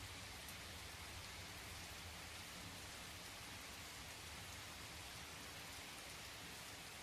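Steady, faint rain falling, an even hiss with scattered drops pattering.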